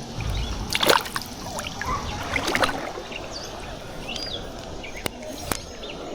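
Water splashing and sloshing around a canoe, with a few sharp knocks, the loudest about a second in.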